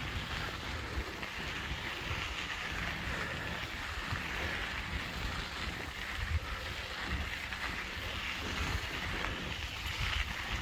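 Wind buffeting the microphone of a camera carried on a moving bicycle, an irregular low rumble over a steady rushing hiss.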